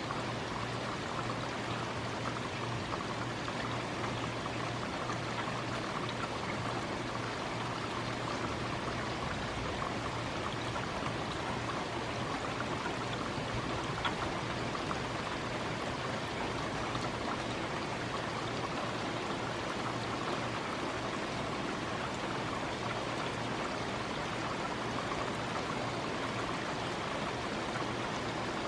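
Steady heavy rain falling during a thunderstorm, an even wash of water noise with an occasional faint click of a drop.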